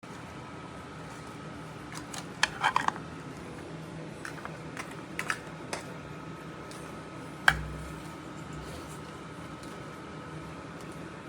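A few sharp clicks and taps, a quick cluster about two and a half seconds in and one louder knock with a dull thud a little past the middle, over a steady hum.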